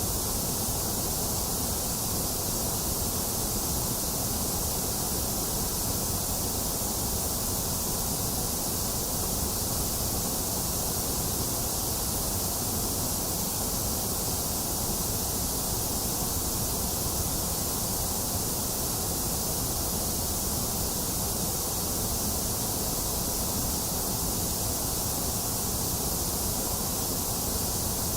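Box fan running steadily together with steady rain, an even unchanging hiss with a low rumble underneath.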